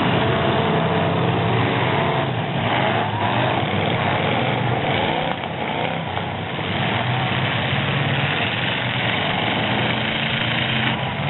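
Engines of full-size demolition-derby trucks running and revving, their pitch rising and falling a few seconds in.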